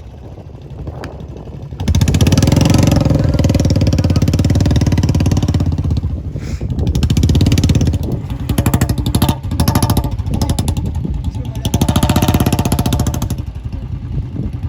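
Royal Enfield Bullet 350's single-cylinder engine revved hard in repeated bursts of throttle, picking up about two seconds in and easing back near the end.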